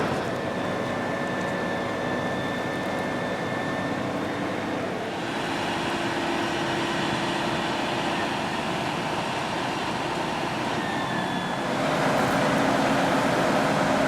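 Engines of antique fire trucks running as parade rigs go by, a steady vehicle sound that gets louder about twelve seconds in.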